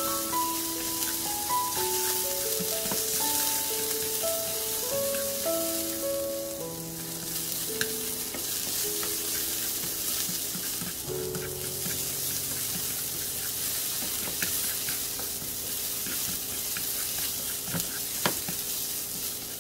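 Garlic and ginger frying in oil in a pan: a steady sizzle, with a few sharp clicks of a utensil against the pan. Soft background music plays underneath, most clearly in the first half.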